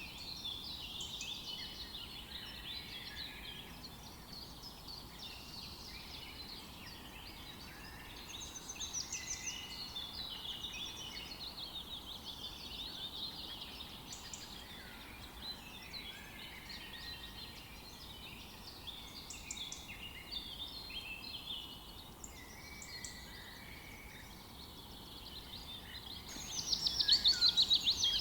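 Many birds chirping and calling at once, a dense chorus of short overlapping notes. Near the end one bird gives a louder, fast rattling run of repeated calls.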